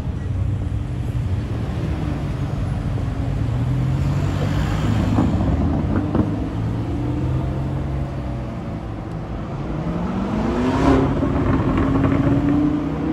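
Lamborghini Urus's twin-turbo V8 running steadily as it pulls past at low speed. Near the end an engine note climbs in pitch as a car accelerates.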